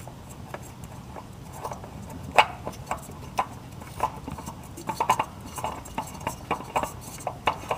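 A new spin-on oil filter being handled and screwed on by hand: irregular light clicks and knocks, one sharper knock about two and a half seconds in, and clicks coming more often toward the end.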